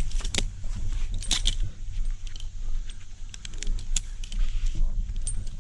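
Metal climbing hardware, carabiners and rigging gear, clinking and jingling in irregular small clatters, over a steady low rumble.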